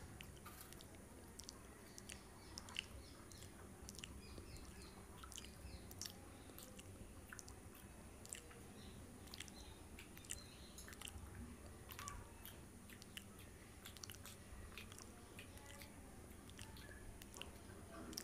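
Faint close-up chewing of a soft bread roll stuffed with spiced filling, a steady run of small wet mouth clicks and smacks with an occasional bite.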